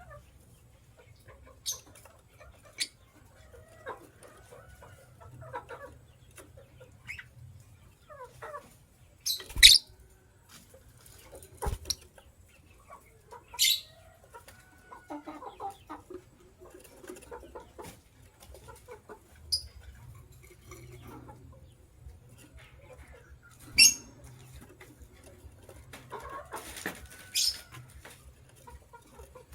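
White lovebirds chirping: scattered sharp, high chirps, several of them loud, with softer calls in between. Two sharp clicks come about 10 and 12 seconds in.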